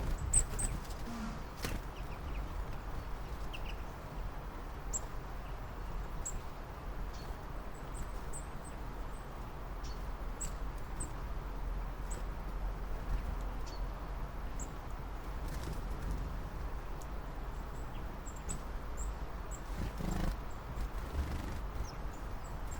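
Small birds giving short, high chirps, scattered singly and in quick pairs over a steady low rumble, with a few soft knocks.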